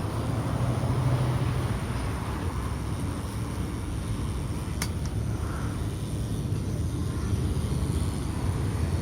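City bus's diesel engine idling at a stop, a steady low rumble, with a single sharp click a little before the middle.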